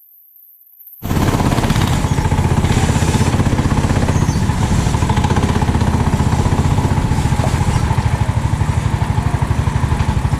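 390cc kart engine running steadily with a fast, even pulsing beat; it cuts in abruptly about a second in after a quiet start.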